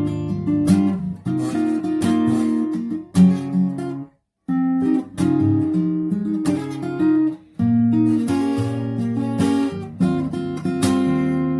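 Acoustic guitar playing chords and melody notes, with a brief full stop about four seconds in before the playing resumes.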